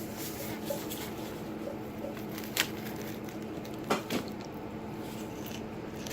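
Kitchenware being handled: three short clicks of utensils against dishes or a pan, over a steady low hum.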